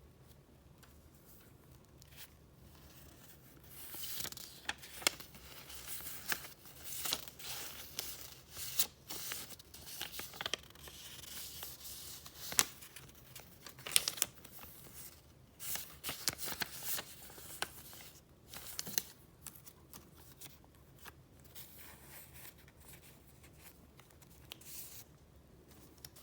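Paper and plastic file sleeves being handled: irregular rustling and crinkling with a few sharp snaps. It starts a few seconds in and dies away near the end.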